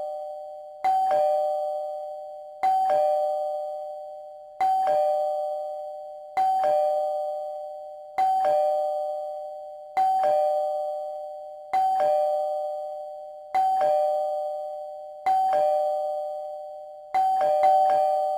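Two-tone doorbell chime, ding-dong, rung over and over about every two seconds, each high note and lower note ringing out and slowly fading.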